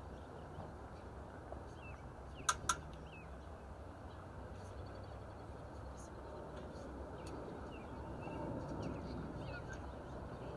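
Steady background noise with scattered faint bird chirps, and two sharp knocks in quick succession about two and a half seconds in.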